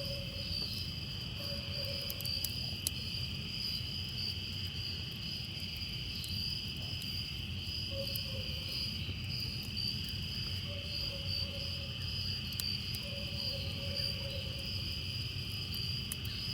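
Steady, high-pitched chorus of insects trilling without a break, with a fainter lower tone that comes and goes several times underneath.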